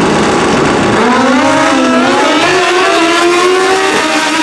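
Pro drag motorcycle launching and accelerating hard down the strip. The engine's pitch climbs steadily and drops back briefly about twice at each upshift.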